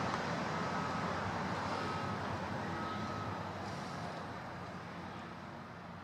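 Steady outdoor traffic noise, with a faint short high beep repeating about once a second over the first half, the whole sound fading gradually.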